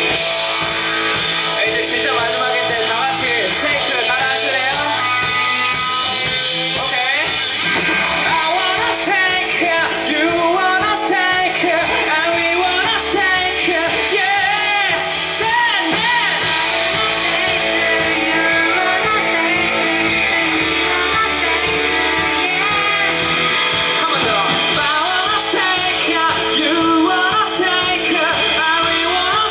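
Live rock band playing with electric guitar, bass and drums, and a loud sung vocal.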